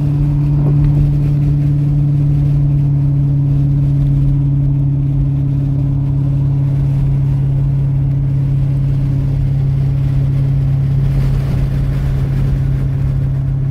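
A car's engine and exhaust droning steadily at highway cruise, heard from inside the cabin over tyre and road noise, its pitch holding almost level.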